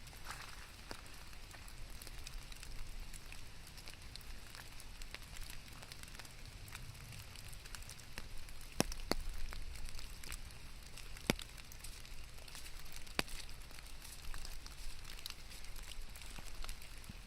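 Steady rain with scattered drops ticking, and a few sharper drip clicks about nine, eleven and thirteen seconds in.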